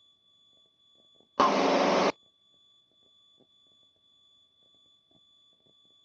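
Aircraft intercom audio: a faint steady high-pitched tone, broken about a second and a half in by a sharp-edged burst of loud cockpit noise lasting under a second as the audio channel briefly opens and then cuts off.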